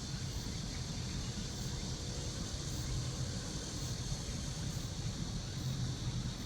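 Steady outdoor background: a low rumble under a constant high hiss, with no distinct call or event.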